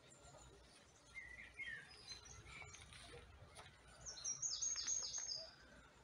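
Small songbird singing: a few chirps about a second in, then a louder run of quick, falling notes around four to five seconds in, over faint low outdoor background noise.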